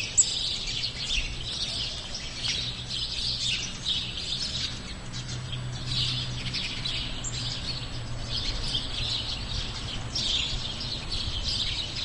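Many small birds chirping continuously in a dense chorus, over a low steady hum.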